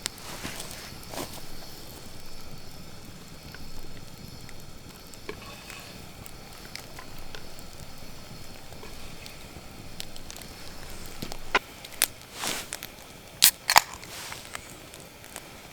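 Campfire crackling over a steady hiss, with scattered sharp pops and a few louder clicks near the end.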